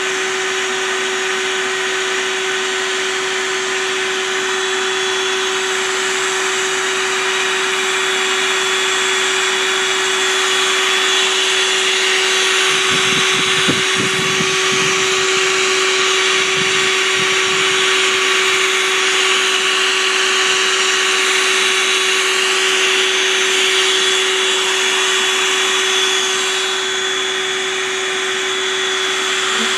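A motor running steadily with a constant whine, with a short spell of low rumbling knocks about halfway through.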